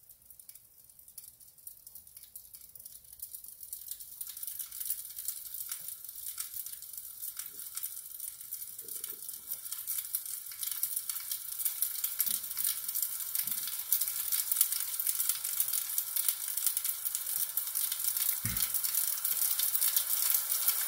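Recorded crackling of a wood fire from a fireplace DVD's original sound track, played through a television's speakers: a dense crackle and hiss that grows steadily louder.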